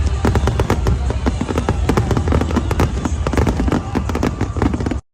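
Fireworks display: dense, rapid crackling and popping of bursting shells over a constant low rumble, cutting off suddenly near the end.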